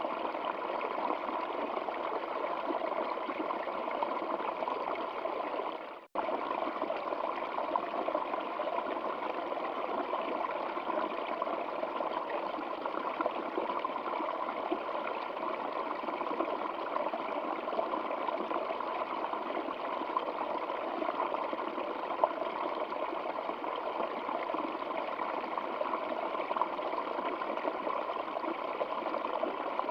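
Stream water flowing and trickling steadily. About six seconds in, the sound drops out for a split second.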